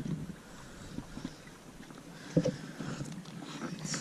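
Low noise of a small fishing boat on the water, with a few light ticks and one sharp knock a little past halfway through.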